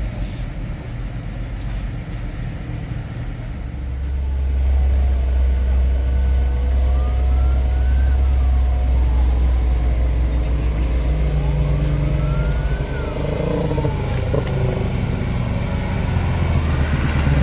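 Heavy diesel truck engine running hard under load on a steep climb: a deep steady drone that grows louder about four seconds in. Twice a whine rises and then falls.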